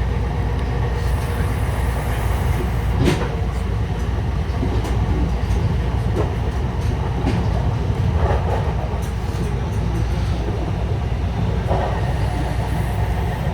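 Steady low rumble of a double-decker commuter train running along the rails, heard from inside the coach, with a sharp click about three seconds in.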